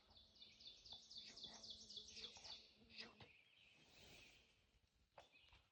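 Near silence with a faint songbird trill: a quick series of short falling notes, about five a second, for roughly three seconds, then a couple of faint clicks.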